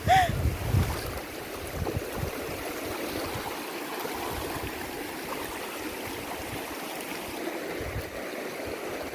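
River water flowing steadily, an even rushing noise, with a brief low rumble in the first second.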